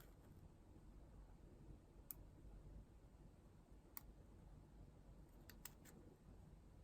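Near silence: low room hum with a few faint, sharp clicks, single ones about two and four seconds in and a quick run of three near the end.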